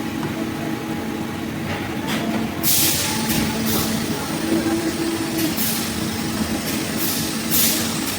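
Factory production-line machinery running with a steady low hum, broken by about six short bursts of hiss from about two and a half seconds on.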